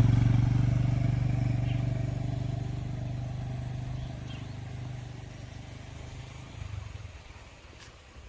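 A motorcycle engine passing close, then fading steadily into the distance over about seven seconds.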